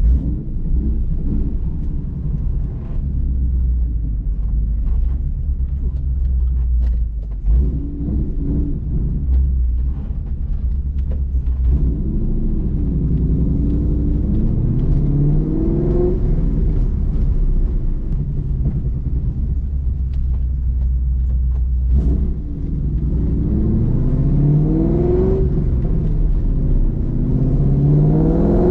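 Roush Mustang engine heard from inside the cabin: a steady low rumble while cruising, then two pulls under acceleration about twelve and twenty-two seconds in, each a rising engine note. The second pull drops back once and climbs again.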